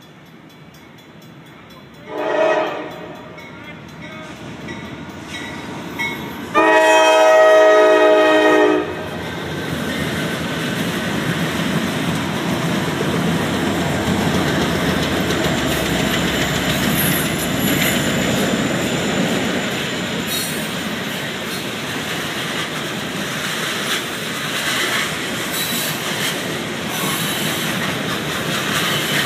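Norfolk Southern freight train sounding its diesel locomotive horn at a road crossing: a short blast about two seconds in, then a loud long blast lasting about two seconds. The lead locomotives and then the tank cars roll past with a steady rolling noise for the rest of the time.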